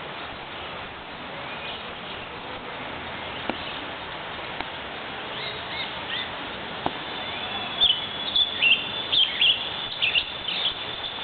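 Birds chirping over a steady background hiss, a few chirps at first, then a run of short, loud chirps over a thin steady high tone in the second half.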